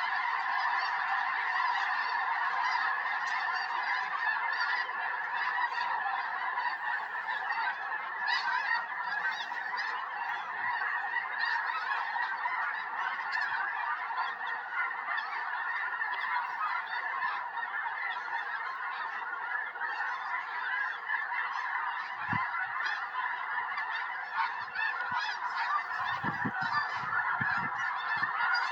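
A large flock of snow geese calling continuously, hundreds of overlapping honks merging into a dense, steady chorus.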